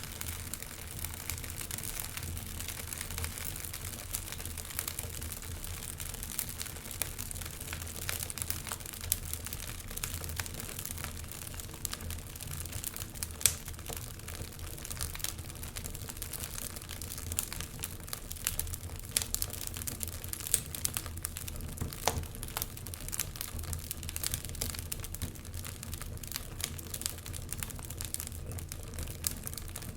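Wood fire crackling steadily in a fireplace: a continuous low rumble of flame with many small irregular pops and snaps, a few louder ones standing out.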